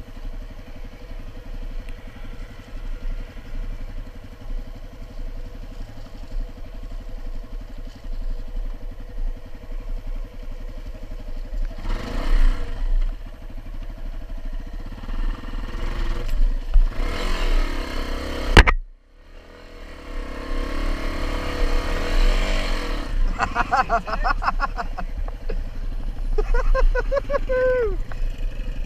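An engine running steadily and revving up and down several times, with a sudden break about two thirds of the way through.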